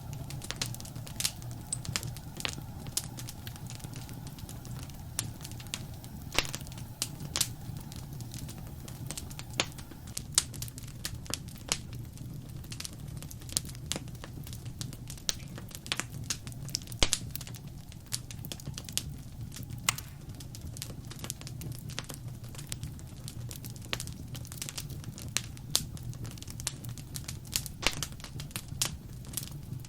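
Wood fire crackling in a fireplace: irregular sharp pops and snaps, a few much louder than the rest, over a steady low rumble of the flames.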